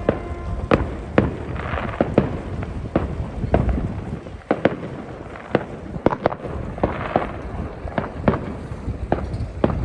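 Fireworks going off: sharp bangs and pops at irregular intervals, several a second at times, over a continuous low rumble of more distant explosions.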